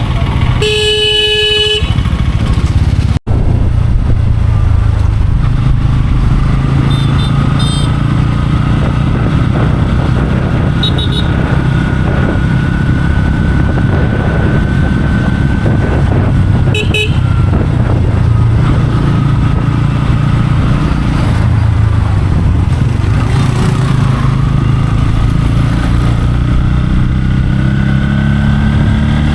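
Motorcycle engine running under way through traffic, its pitch rising as it accelerates near the end. A loud horn sounds once, about a second in, and shorter honks from other vehicles come now and then.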